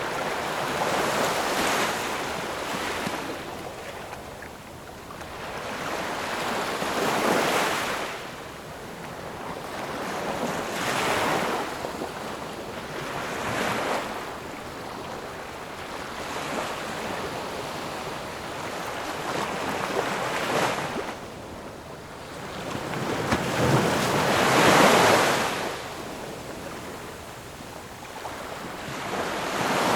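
Ocean waves breaking and washing on the shore, a hissing surf that swells and fades every few seconds; the biggest wave comes near the end.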